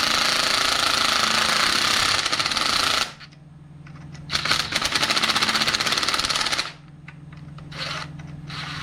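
Powered impact tool hammering in rapid strokes, running down the screws on an outboard lower unit's water pump housing. It runs in two long stretches of about three and two and a half seconds, then in short bursts near the end, over a steady low hum.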